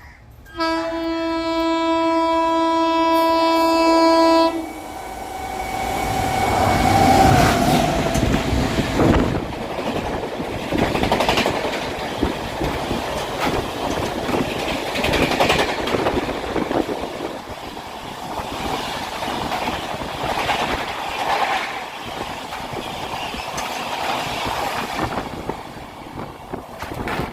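Indian Railways express train sounding its horn in one long steady blast of about four seconds, then passing at speed, about 130 km/h, with a loud rumble and the clickety-clack of wheels over rail joints that swells and fades.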